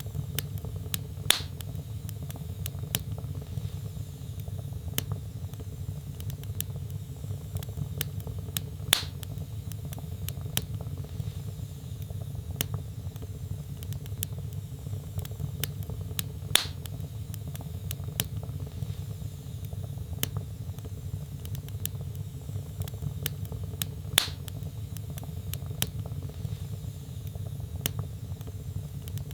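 Burning logs in a fireplace crackling: many small sharp clicks and four louder pops, about one every seven or eight seconds, over a steady low rumble of the flames.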